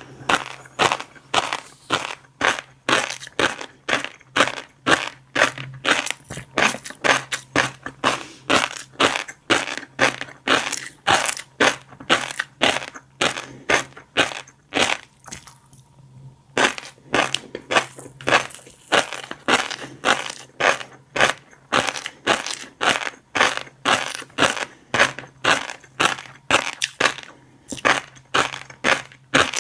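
Close-miked chewing of fish roe (flying fish and capelin eggs), the eggs popping and crunching between the teeth about two to three times a second, with a brief pause midway. A steady low hum runs underneath.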